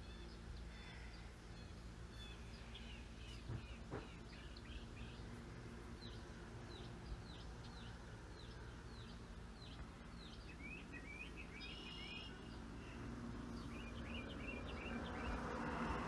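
Birds chirping faintly outdoors: many short, falling chirps in quick clusters over a low steady hum.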